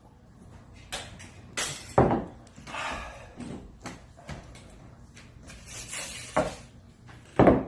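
Things being handled and knocked on a tabletop: a few sharp knocks, the loudest about two seconds in and just before the end, among clattering and hissy rustling.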